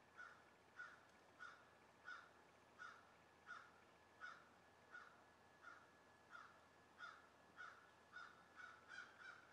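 A bird calling over and over, faint, about three calls every two seconds, coming slightly faster near the end.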